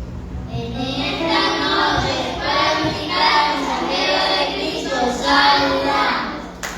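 A group of children singing together in short phrases.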